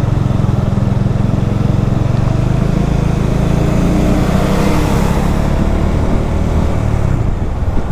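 Bajaj Dominar motorcycle's single-cylinder engine running steadily while riding, with wind rush swelling on the microphone about halfway through.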